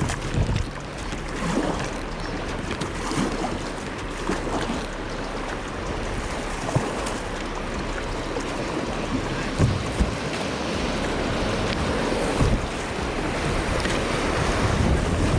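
Fast-moving floodwater rushing over a rocky shelf and around a kayak, a steady rush that grows a little louder near the end, with wind on the microphone and a few short knocks.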